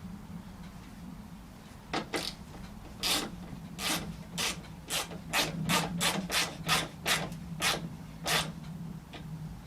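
Hand ratchet tightening a headlight bolt: a run of short rasping strokes, about two to three a second and quickest in the middle, over a steady low hum.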